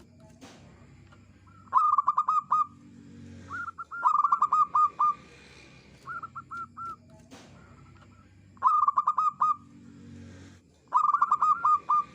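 Zebra dove (perkutut) singing: about five phrases of rapid, staccato cooing notes, each phrase about a second long, repeated every two to three seconds.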